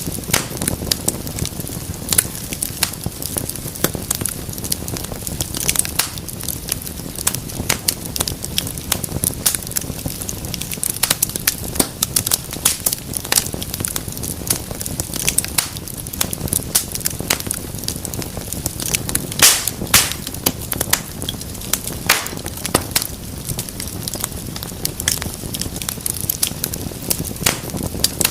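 Wood fire crackling in a fireplace: a steady run of irregular snaps and pops over a low, even rumble of the flames, with a few louder pops scattered through.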